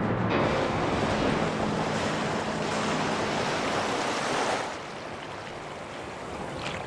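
Ocean surf: a wave breaking in a loud rushing wash that drops off to a softer hiss after about four and a half seconds.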